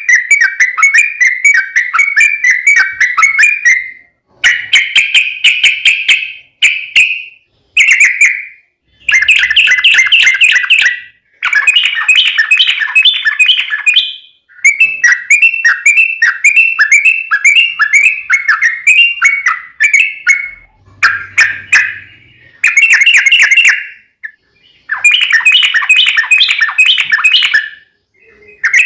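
A yellow-vented bulbul (trucukan) singing its long, rapid, chattering 'ropel' song: bouts of quick repeated bubbling notes, a few seconds each, with short pauses between them.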